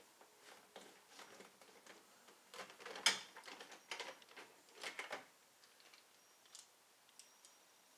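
Scattered clicks and light rattles of a hand tool and hard plastic door trim being handled while the door handle is worked loose from the van's door panel, with the sharpest click about three seconds in.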